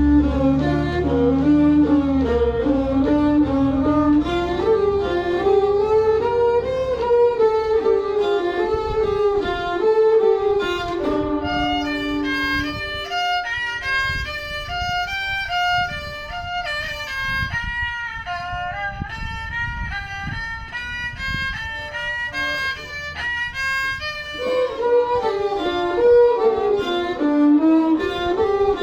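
A bowed fiddle playing a melody, moving stepwise through low-middle notes, then climbing to higher, quicker notes in the middle and falling back to the low range near the end.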